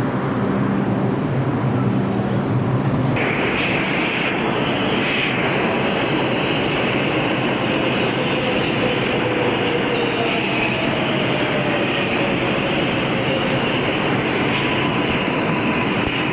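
New York City subway train moving along the platform, a continuous loud rumble of steel wheels on rail with a motor hum. The hum changes and a brighter hiss comes in about three seconds in, with a faint gliding whine later on.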